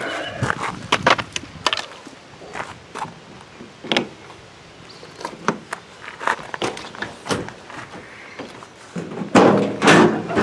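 Handling noises: a string of short knocks and clicks, with a louder scraping rustle near the end.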